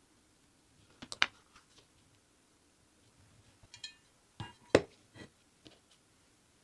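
A few clinks and knocks of hard objects being handled and set down, with the loudest two about a second in and just before five seconds, and a short metallic ring shortly before four seconds.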